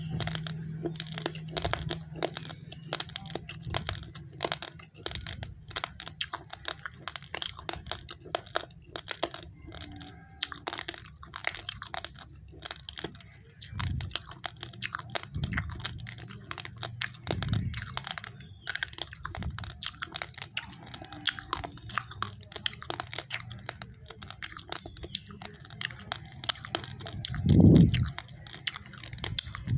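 Raw white rice grains being chewed and crunched close to the microphone: a dense, irregular run of sharp cracks. Several low thumps come in between, the loudest one near the end.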